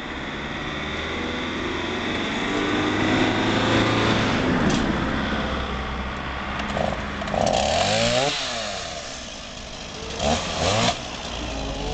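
Chainsaw engine running and revving: its pitch climbs, sweeps down and back up, then two short sharp throttle blips come near the end.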